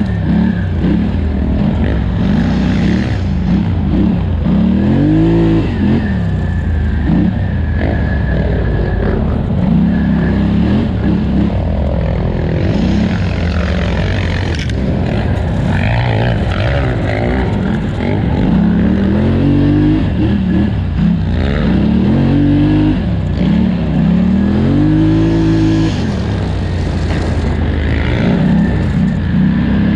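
2018 Polaris Scrambler 1000 XP ATV's parallel-twin engine run hard, its pitch rising and falling again and again as the throttle is opened and closed.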